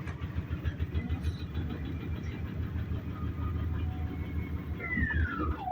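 Altus AL 8103 MD washing machine running hard, a loud, rapidly pulsing low rumble from the drum and motor. In the last second a whine falls steeply in pitch as the motor slows, and the sound then cuts off.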